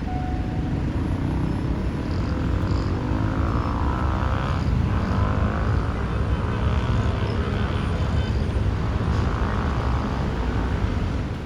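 A train passing at a level crossing: a steady, loud low rumble with rattling noise, fading away right at the end.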